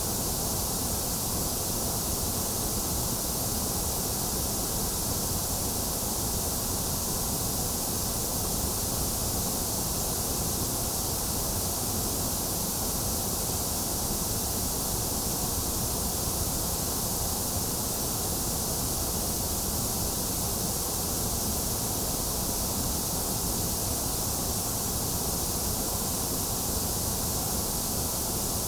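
Steady white noise: a constant, even hiss that does not change.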